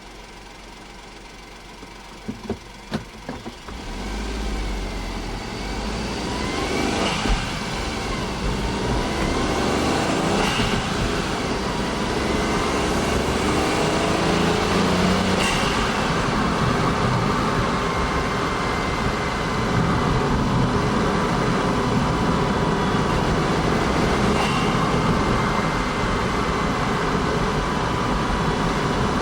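Honda S660's turbocharged 660 cc three-cylinder engine: a few sharp clicks about two to three seconds in, then the engine sound swells as the car gets moving and runs on steadily. Its note climbs and drops back several times.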